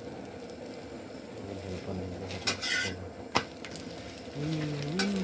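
Clinks and clatter of dishes and cutlery over a steady background hiss, with sharp clinks about two and a half and three and a half seconds in.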